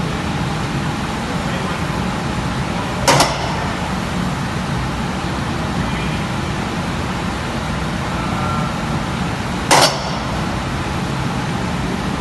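Steady drone of foundry machinery around an induction furnace and continuous casting machine. Two short, sharp bursts of noise break through it, about three seconds in and again near ten seconds.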